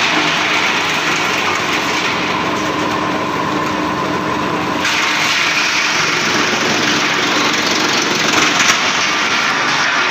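Drum-type wood chipper running and chipping wood, a loud continuous noise that brightens sharply about five seconds in.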